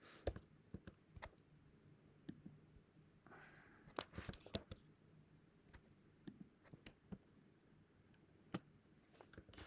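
Near silence with a few faint, scattered clicks from typing code on a computer keyboard.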